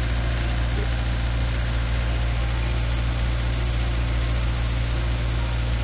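Steady hum of an idling vehicle engine, unchanging throughout.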